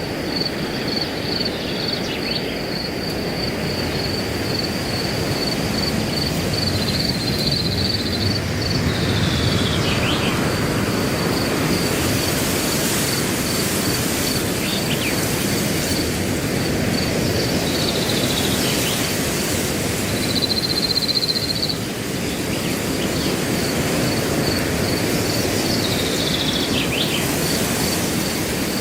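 Wind rushing through grass under a cricket's steady, evenly pulsed high chirping, with a bird call that glides down in pitch heard several times.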